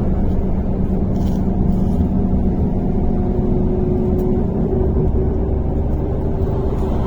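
MAZ-103.485 city bus under way, heard from inside the cabin: a steady engine drone and road rumble, with a steady hum that grows a little stronger about halfway through.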